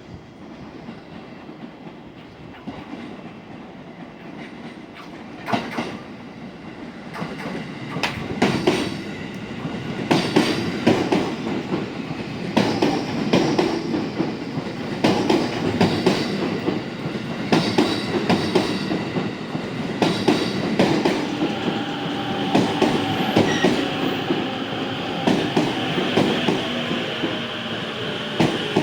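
E257-series electric train arriving: groups of wheel clacks over rail joints over a rising rumble of wheels, growing louder as the train draws in. A steady high whine joins in about two-thirds of the way through.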